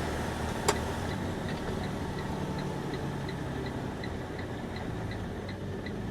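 Turn-signal flasher ticking at a steady pace of roughly two to three ticks a second inside a box truck's cab, over the low hum of the truck's engine. A single sharp click sounds just before the ticking begins.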